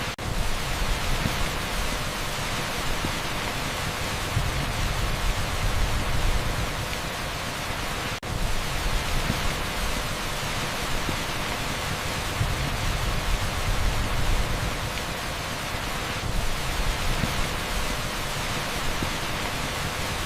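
Heavy downpour on asphalt blended with pink noise: a dense, even hiss with a low rumble underneath. It dips out for an instant near the start and again about eight seconds in.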